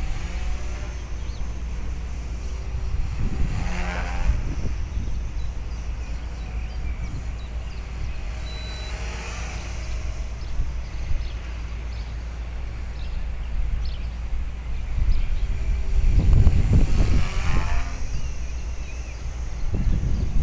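HK-450 flybarless electric RC helicopter flying, its whine rising and falling as it swoops about, around four and ten seconds in, over heavy wind buffeting on the microphone that gets louder in a gust near the end.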